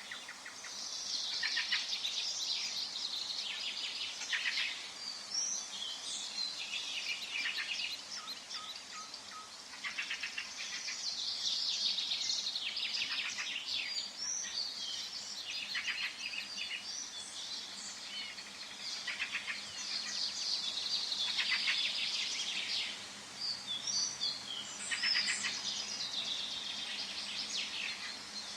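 Several songbirds singing and chirping at once, with rapid trills and short high chirps in repeated overlapping phrases, over faint steady background noise.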